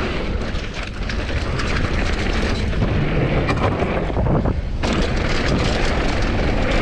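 Wind buffeting an action-camera microphone on a Commencal Supreme DH downhill mountain bike at speed, with tyres on a dirt trail and many small rattles and knocks from the bike over rough ground.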